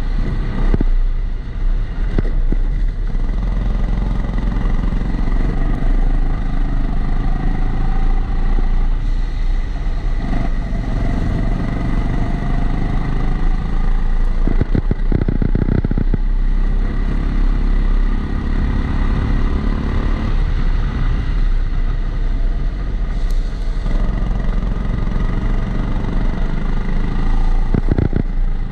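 Kombikart Eco kart's engine heard onboard while lapping, its pitch rising and falling with throttle, with a few brief knocks. A recurring extra noise runs through it, which the uploader puts down to the GoPro sitting in a housing.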